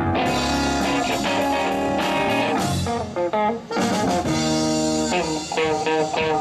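Live blues band playing an instrumental passage: electric guitar lines and chords over bass guitar and drums.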